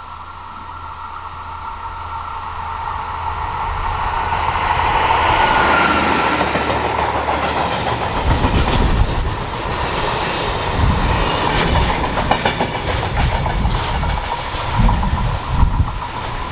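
A train on an electric mainline approaching and passing at speed. It grows steadily louder over the first six seconds, then its wheels clatter rapidly over the rail joints with a low rumble from about eight seconds on.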